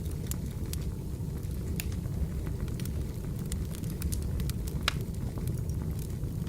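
Wood fire burning with a steady low rumble and irregular crackles and pops, one sharper pop about five seconds in.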